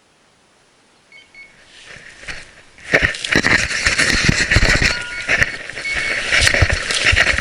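Carp-fishing electronic bite alarm giving a few short beeps, then from about three seconds in sounding rapidly and almost continuously while line is pulled off the free-spool reel with fast clicking: a carp run, a fish taking line.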